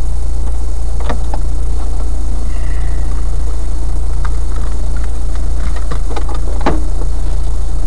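Car engine idling in a stationary rally car, a loud steady low drone, with a couple of faint clicks about a second in and near the end.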